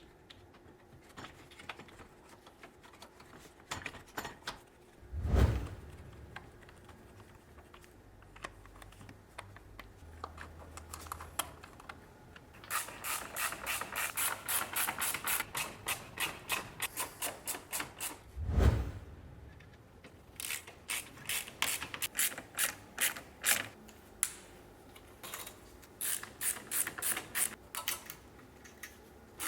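Ratchet wrench clicking in several runs of quick, evenly spaced strokes as a bolt is turned, with two dull thumps.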